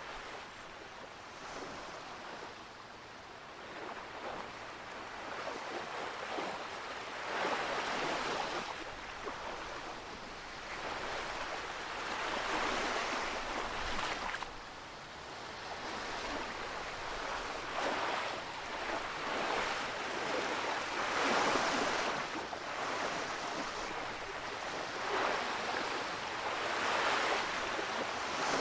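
Atlantic Ocean surf breaking on the shore, a rushing wash that swells and fades every few seconds.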